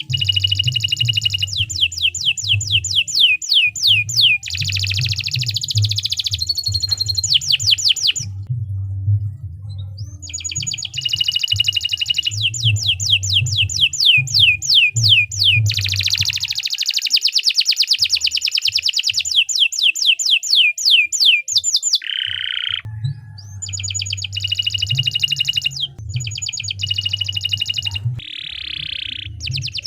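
Domestic canary in long, vigorous song: rapid strings of sweeping whistled notes repeated many times a second, broken by buzzy rolls and a few short pauses.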